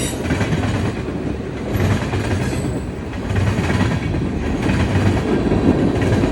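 Railroad cars rolling by with a steady rumble and wheel clatter over the rails, swelling about every second and a half.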